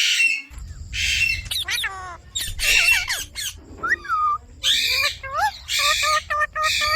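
Ringneck parakeet screeching: about six loud, harsh squawks in a row, with gliding whistled notes and quick short chattering calls between them.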